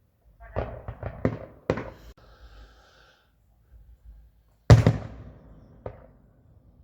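Aerial fireworks going off in a display. Four bangs come in quick succession in the first two seconds, the loudest bang comes near five seconds, and a smaller one follows about a second later.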